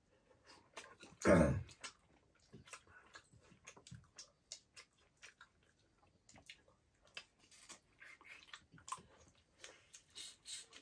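Close-up eating sounds of someone chewing pork leg curry: faint wet chewing and lip smacks as a string of scattered clicks. A short voiced hum or grunt falling in pitch comes about a second in.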